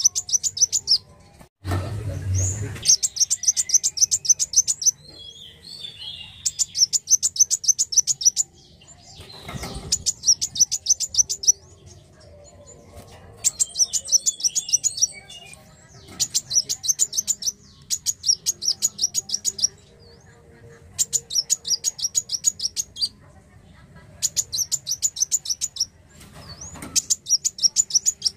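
Kolibri wulung sunbird singing: bursts of rapid, high trilled notes, each one to two seconds long, repeated again and again with short pauses between them. There is a brief low rumble about two seconds in.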